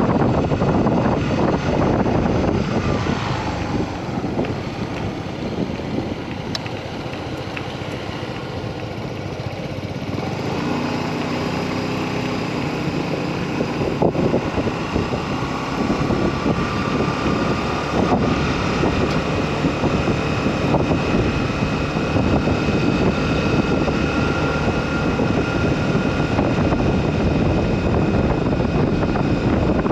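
Motorcycle engine running while riding, under heavy wind noise on the microphone. It eases a little in loudness about four to ten seconds in, then picks up again.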